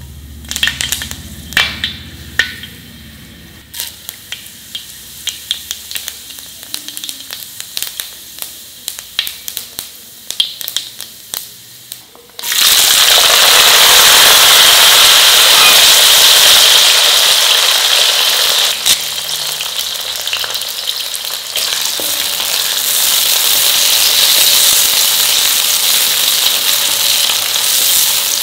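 Food frying in hot oil in a pan. For about twelve seconds there are only sharp, scattered crackles and pops. Then a loud sizzle starts suddenly, as if more food has gone into the oil, and settles into steady frying.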